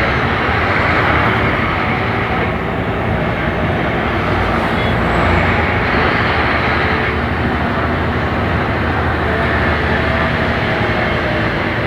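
Scania K270IB bus's diesel engine running while the bus is under way, a steady drone with road noise, its note shifting a couple of times.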